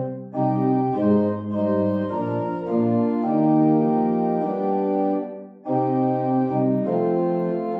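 Organ playing slow, held chords that change every second or so, with a brief break about five and a half seconds in.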